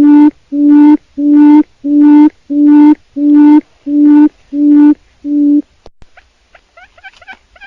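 Forest quail calling: a series of about nine low, even hoots, about one and a half a second, that stops about five and a half seconds in. After a click, a fainter run of quick, short upward-sliding chirps begins.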